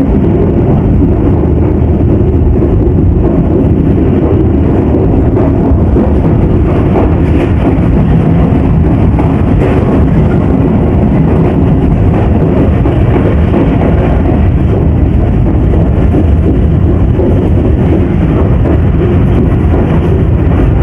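Moving passenger train: a steady, loud rumble of wheels running on the track.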